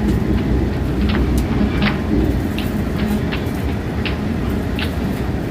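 Train running, a steady low rumble with light clicks and rattles scattered through it.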